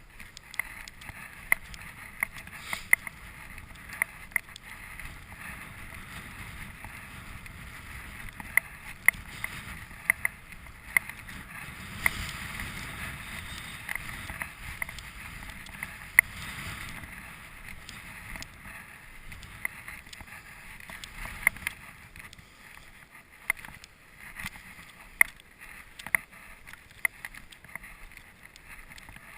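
Footsteps trudging through deep snow, a sharp crunch every half second to a second, over a steady wind. The wind swells about twelve seconds in and eases off a few seconds later.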